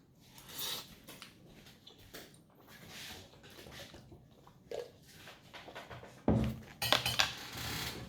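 A fork clinking and scraping against a dish of noodles while eating, in scattered short sounds, with a louder, longer stretch of noise near the end.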